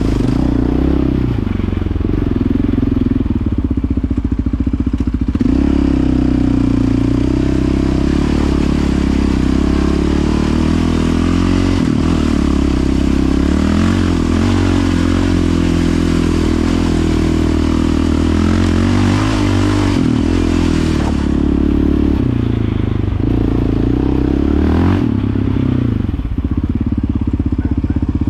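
Yamaha Raptor 700 ATV's single-cylinder four-stroke engine running through an aftermarket Yoshimura exhaust, still in its break-in period. The engine note rises and falls with the throttle several times.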